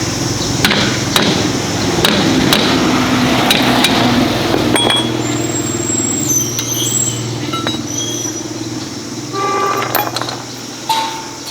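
An engine running steadily, with scattered sharp metallic clicks and taps over it. The engine sound drops away about nine seconds in.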